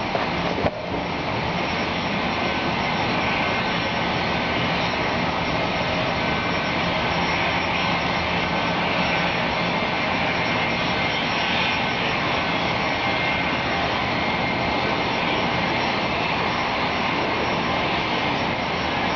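Rain falling steadily, a continuous hiss, with a single click about a second in.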